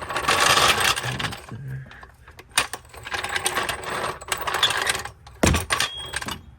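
Metal car jack rattling and clattering in bursts as it is handled and set under the car, with one sharp knock about five and a half seconds in.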